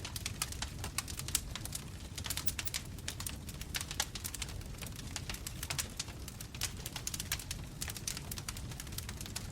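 Bonfire crackling, with many sharp irregular pops and snaps over a low steady rumble of burning flames.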